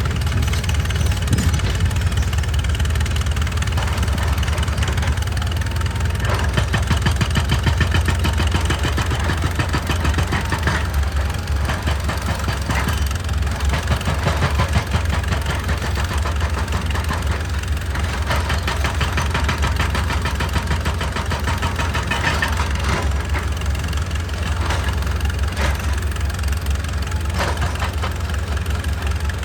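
Excavator's diesel engine running steadily, with irregular knocks and scrapes on top, the loudest about a third of the way in and around three quarters of the way through.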